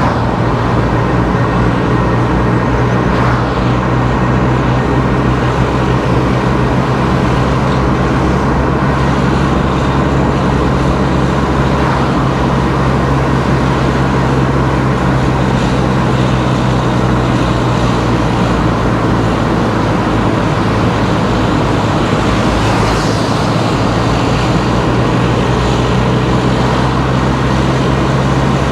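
A car driving steadily along a road: even engine and tyre noise with a constant low hum.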